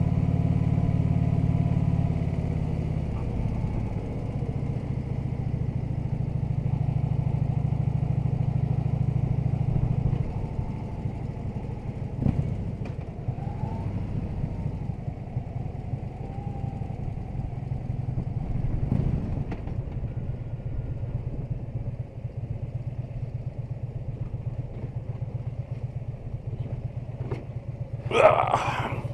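Harley-Davidson touring motorcycle's V-twin engine running under way, its note easing off about two seconds in and again about ten seconds in. Near the end a short, loud sharp sound cuts across it.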